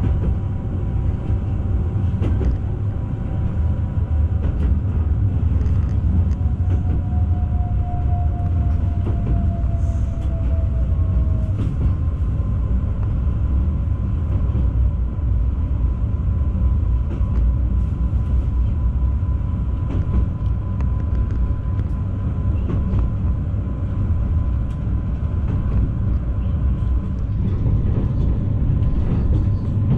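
Newag Impuls 2 electric multiple unit heard from inside the passenger car while running: a steady low rumble of wheels on rail, with thin high whines over it. One whine slides down in pitch about seven to eleven seconds in, and there are a few faint clicks.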